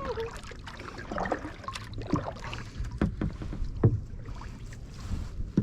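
Kayak paddling: paddle strokes dipping and splashing in the water, with several sharp knocks at irregular intervals and a steady low rumble of wind on the microphone.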